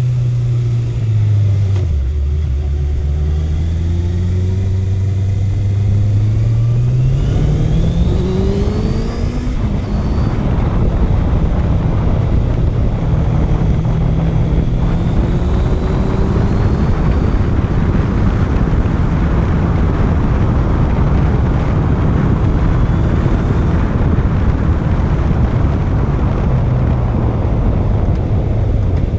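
Honda CB650F inline-four motorcycle engine being ridden. About a second in its revs drop to a low steady note; from about seven seconds in it accelerates with a steadily rising pitch. From about ten seconds on it holds a steady note under a loud rush of wind and road noise.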